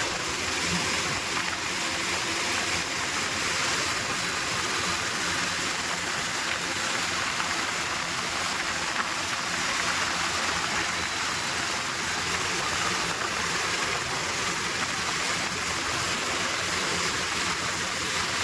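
Tractor running at speed: a steady rushing noise with a faint, even engine drone beneath it.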